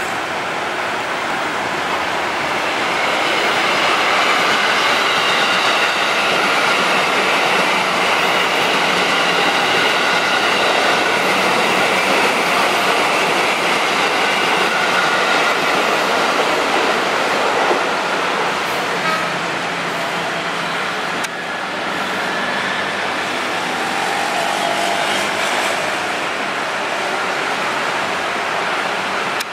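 Electric commuter trains passing close by: a steady rumble and rattle of wheels on rails with a faint high whine, loudest through the middle as a long train goes past.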